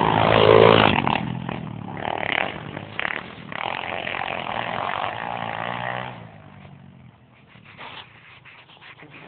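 Pit bike engine revving, loudest in the first second, then running on with wavering pitch and fading away about six seconds in.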